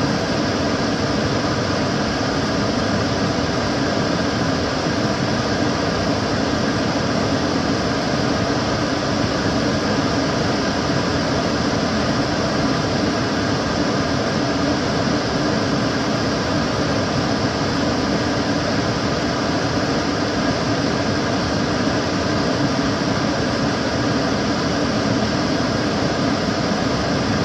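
Kitchen cooker hood extractor fan running steadily: an even rush of air with a low hum and faint steady whine, unchanging throughout.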